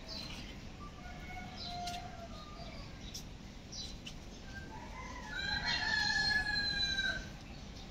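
A bird calling: one long, loud call of about two seconds, about five seconds in, after a fainter call near the start.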